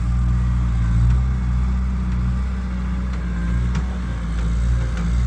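Engine of a farm machine running steadily at a constant speed, a low, even hum with no change in pitch.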